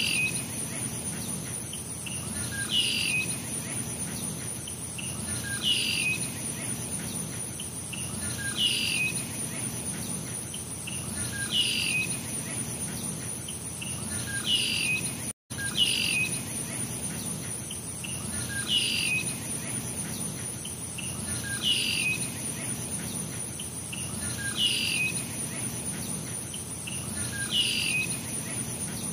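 A bird giving a short falling chirp about every three seconds over a steady high insect trill, with a brief gap about halfway through.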